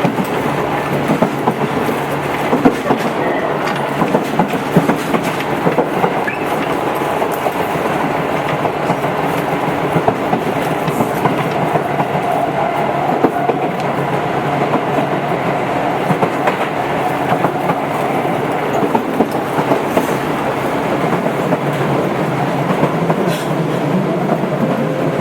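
Onboard running sound of a Tobu 8000 series electric train travelling between stations: a steady rumble of wheels on the rails, with repeated clicks as the wheels pass over rail joints.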